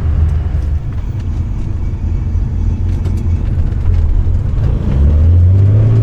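Nissan Skyline C10 Hakosuka's engine on Solex carburettors, tubular headers and a dual Trust 50 mm exhaust, running under way with a deep exhaust note, heard from inside the cabin. The note eases slightly about a second in, then rises in pitch from about five seconds in as the car accelerates.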